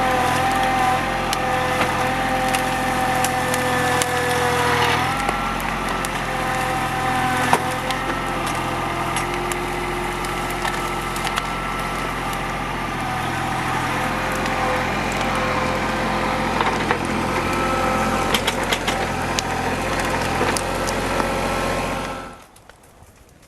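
A TYM compact tractor's diesel engine runs steadily, with many sharp cracks and snaps of timber over it. The engine note shifts about five seconds in, and the sound cuts off suddenly near the end.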